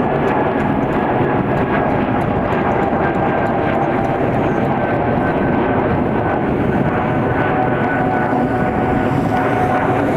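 Airbus A220's Pratt & Whitney PW1500G geared turbofan engines at takeoff power as the jet climbs out: a loud, steady jet roar with a high whine that slowly falls in pitch.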